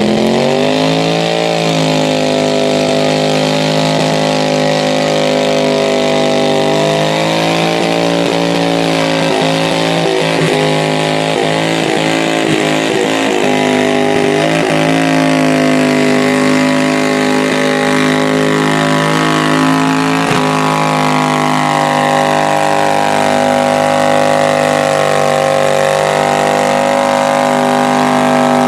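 Engine of an altered-class pulling garden tractor revving up hard and held at high revs under load. Its pitch wavers and dips unevenly for several seconds in the middle, dips once more later, then holds steady to the end.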